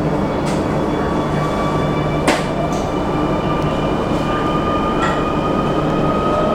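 Shenzhen Metro Line 3 train running, heard from inside the carriage: a steady rumble with a motor whine and one sharp knock about two seconds in. Near the end a second whine begins to rise in pitch.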